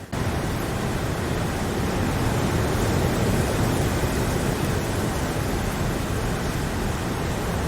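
Steady rain, heard as an even hiss with no distinct drops or thunder; the level dips briefly right at the start, then holds constant.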